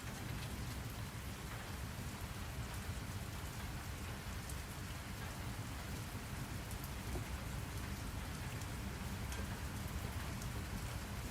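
Steady rain falling, a continuous hiss with a low rumble underneath and faint scattered drop ticks.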